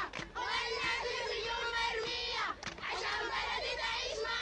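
A child singing, with the voices of a crowd behind.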